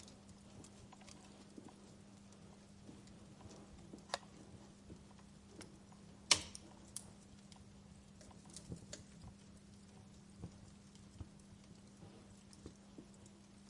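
Wood fire crackling, with sparse irregular snaps and pops over a faint hiss and one sharp, louder pop about six seconds in.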